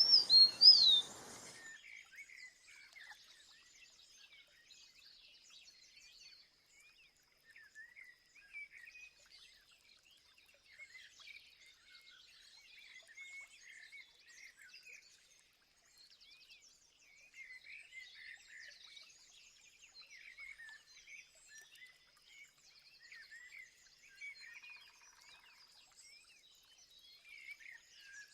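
Small birds chirping and calling faintly, short quick notes scattered throughout. In the first second and a half comes a louder burst of noise with a couple of falling whistles.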